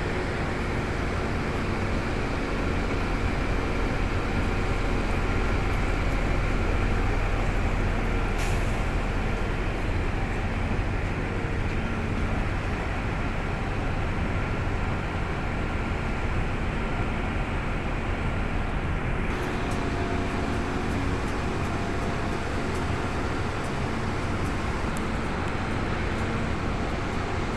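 Heavy construction machinery's diesel engines running steadily with a deep rumble that swells a little about a quarter of the way in. There is a short sharp knock about eight seconds in.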